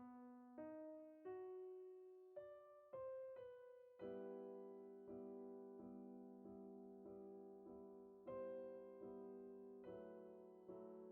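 Soft background piano music: slow single notes, then repeated chords from about four seconds in.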